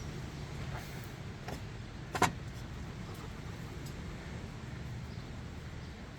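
A few light clicks and one sharper knock about two seconds in, over a steady low rumble.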